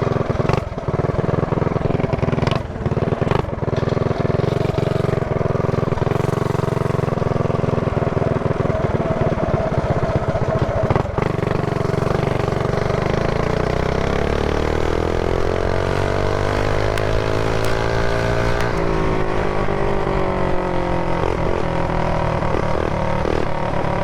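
Mini bike's small engine running under the rider, with a few knocks early on. About halfway through it revs up with a rising pitch, drops suddenly, then winds down.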